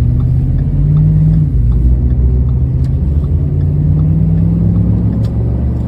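Car engine accelerating over a low road rumble: its pitch climbs, drops sharply at a gear change about one and a half seconds in, then climbs slowly again.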